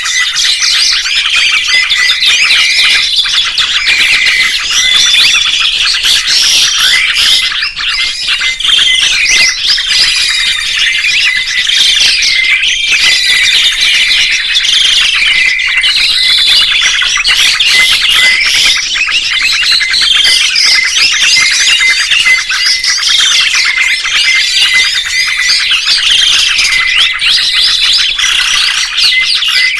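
Many songbirds chirping and singing over one another in a dense, unbroken chorus of quick rising and falling whistled notes.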